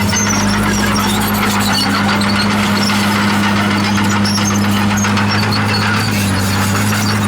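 Komatsu D51PX crawler bulldozer's diesel engine running at a steady pitch, with scattered short high-pitched squeaks from its steel tracks.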